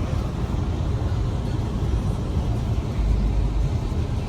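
Steady low road and engine rumble of a moving car, heard from inside the cabin, swelling slightly about three seconds in.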